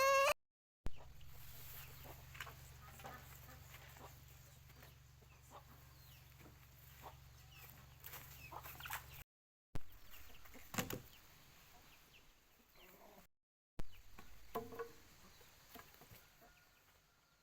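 Poultry clucking in short, scattered, faint calls, with a low steady hum under the first half. The sound drops out briefly a few times.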